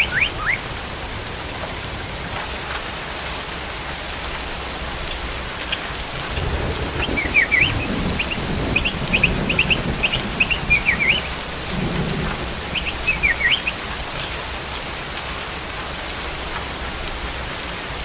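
Steady rain hiss with low rumbles of thunder. A songbird gives several bursts of quick, high, rising chirps in the middle.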